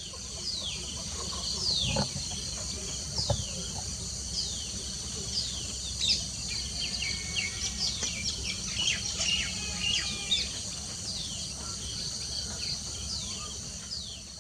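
Wild birds calling, with repeated short high chirps that slide downward in pitch, about one a second and busier in the middle, over a steady high insect drone.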